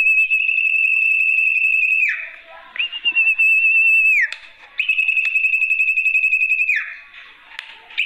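Sertu (zepo) bird's lure call: three long, level, slightly trilling whistles of about two seconds each, every one dropping in pitch as it ends, with short pauses between. It is the call used to lure rival birds.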